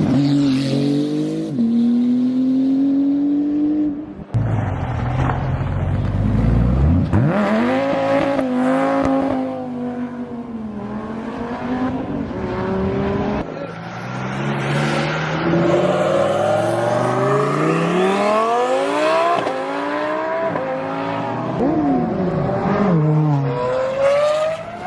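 Car engines revving hard and accelerating at full throttle, their pitch climbing and dropping back as they rev and shift. About four seconds in the sound breaks off abruptly and a deep, rising engine note takes over.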